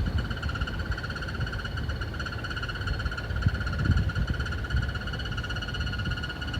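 A steady, rapidly pulsing high trill from calling animals, unbroken throughout, with irregular low rumbling underneath.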